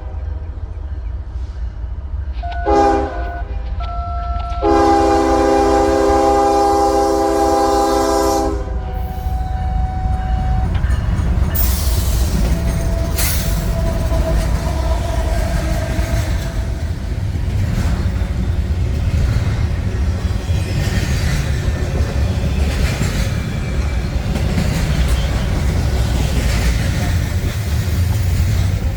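Diesel freight locomotive's multi-chime air horn sounding a short blast, then a long one, followed by the steady rumble and wheel clatter of the train rolling past.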